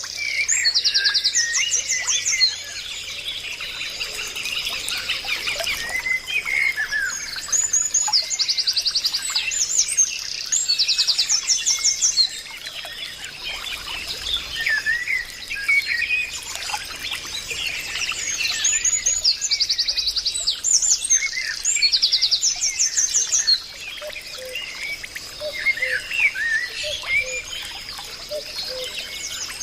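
Several forest birds singing together: short chirps and whistles with rapid, high buzzy trills that recur every few seconds, over a thin steady high tone.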